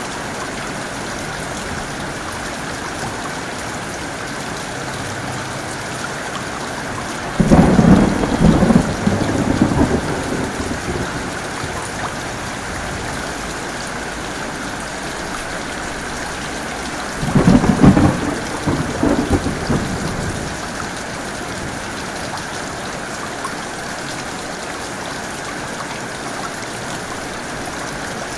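Steady heavy rain, with two sudden loud cracks of thunder about ten seconds apart, each rumbling on for a few seconds before falling back to the rain.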